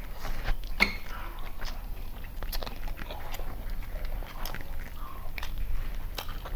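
A person chewing and biting mouthfuls of chicken biryani, with irregular wet clicks and smacks throughout.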